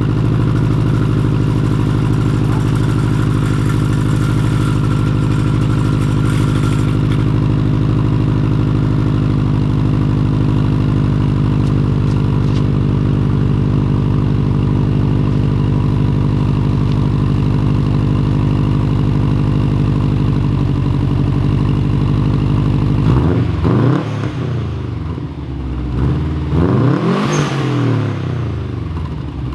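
Car engine idling steadily through an Invidia N1 exhaust with its silencer baffles fitted, then revved twice near the end, the pitch rising and falling each time.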